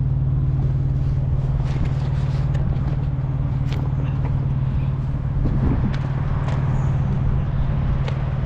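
Diesel truck engine idling: a steady low hum with a few faint clicks over it.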